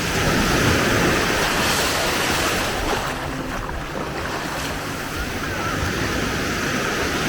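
Sea waves washing onto the beach: a steady rushing of surf that swells just after the start and slowly eases off, with wind buffeting the microphone.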